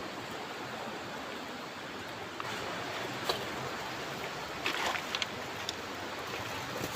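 River water running over rocks as a steady rush, a little louder after about two seconds. A few short sharp splashes or knocks come in the second half.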